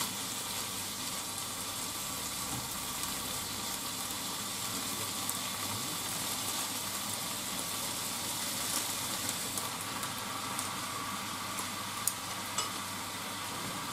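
Cabbage and green pepper frying in a pan: a steady sizzle, with a few light clicks near the end.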